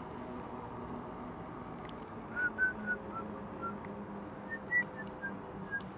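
A run of about ten short whistled notes at varying pitch, starting a little over two seconds in, over a steady hiss with a faint high steady tone.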